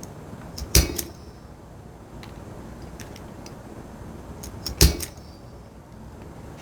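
Two sharp knocks about four seconds apart, each with lighter clicks just before and after, as holes are punched in leather for eyelets.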